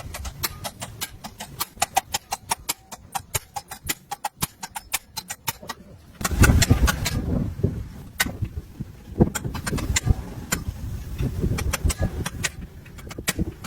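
Hand-tool work on a moped being stripped down: a run of quick metallic clicks, several a second, then from about six seconds in heavier knocks and clatter of parts.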